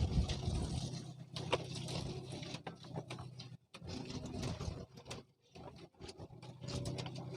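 Small boat engine running with a steady low hum, under scattered clicks and knocks; the hum drops away for a moment about three and a half seconds in and again about five seconds in, then returns.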